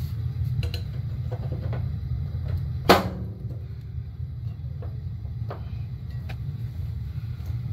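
Sheet-metal access cover of a gas water heater being fitted back on: one sharp metallic knock with a short ring about three seconds in, and a few lighter clicks, over a steady low rumble.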